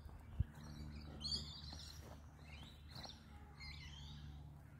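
Birds chirping outdoors: a few short high calls with quick pitch glides, over a low steady hum. A single sharp click about half a second in.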